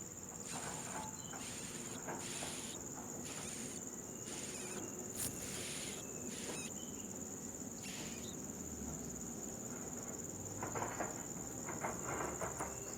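Insects calling: a steady high-pitched cricket trill with a second insect pulsing above it in short repeated bursts. A few short rustles and clicks come near the end.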